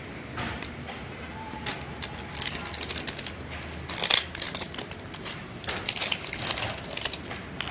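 Plastic wrapping of a knock-off L.O.L. Surprise ball being torn open and crinkled by hand: irregular crackles and rustles, loudest about four seconds in.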